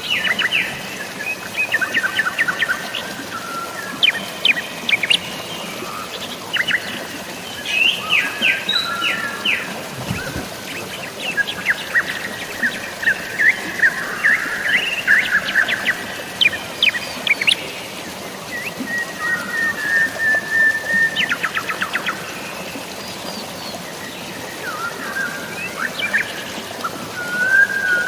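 Birds chirping in quick series of short chirps and trills, with brief lulls, over a steady hiss of falling water.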